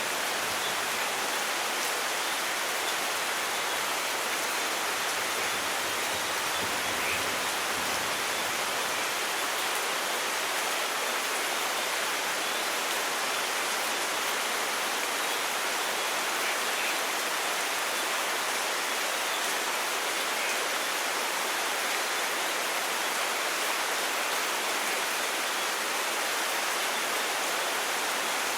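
Steady heavy rain, an even hiss that holds constant throughout.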